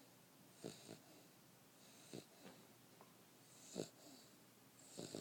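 A nine-week-old English Mastiff puppy snoring in its sleep. Short snores come about every one and a half seconds, several of them as quick double catches.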